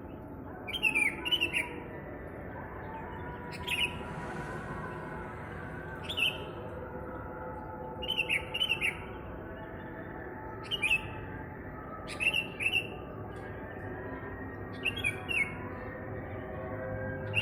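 A wild bird giving short, sharp calls, often two notes close together, repeated about every two seconds over a steady background hum.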